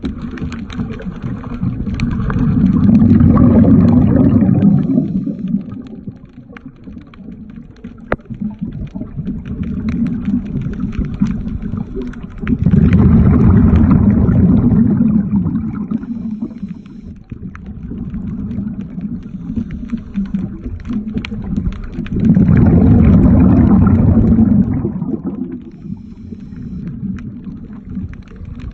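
Underwater bubbling from a diver's exhaled breath: three long gurgling surges about ten seconds apart, with small clicks and taps in between.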